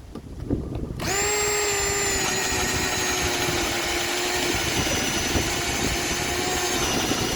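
Cordless drill's motor switched on about a second in, running with a steady whine that sags slightly in pitch as it works. The drill is set to its screwdriver mode.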